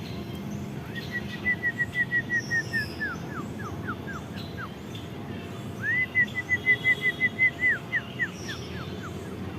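A bird singing two phrases of rapid whistled notes: each starts as a quick, level series and then breaks into slower notes that slide downward in pitch. The second phrase, about six seconds in, is the louder.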